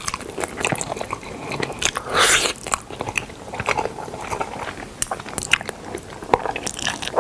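Close-miked eating of smoked chicken: biting and chewing with crunchy, clicking mouth sounds, and a louder crunch about two seconds in.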